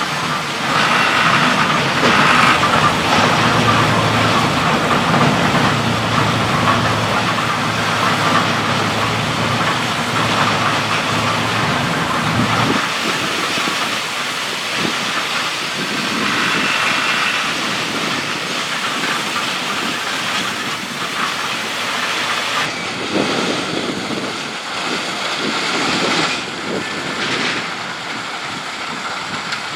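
A vehicle running steadily, with a continuous mechanical noise; the sound changes abruptly about three-quarters of the way through.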